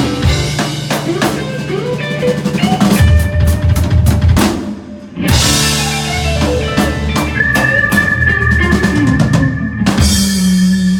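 Live blues band playing an instrumental passage: drum kit fills with bass drum and rimshots under guitar, a cymbal crash just after a brief drop about five seconds in, then a long held guitar note with another crash near the end, like the close of the song.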